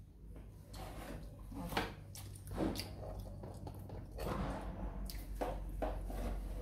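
Close, wet chewing and mouth sounds of someone eating fried quail eggs, in irregular short smacks and squishes, over a steady low hum.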